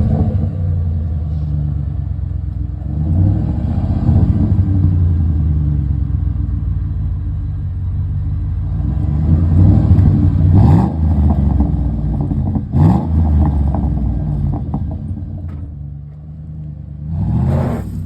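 Ford F-150 engine running through a straight-piped exhaust, its rear muffler removed, with a loud low rumble at idle. The throttle is blipped several times, the engine revving up and settling back, around three to four seconds in, twice in the middle, and again near the end.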